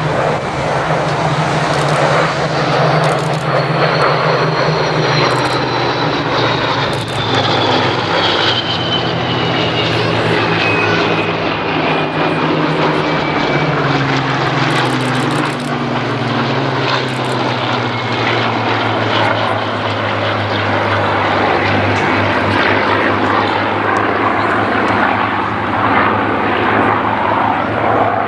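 Propeller-driven Second World War fighter's V12 piston engine droning steadily as it flies past. Its pitch falls over about ten seconds as it goes by, then it settles into a steady drone.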